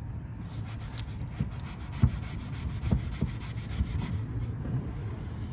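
Melamine (magic eraser) sponge wetted with water scrubbing a chrome exhaust tip in quick back-and-forth strokes, working off the exhaust residue. The strokes ease off near the end.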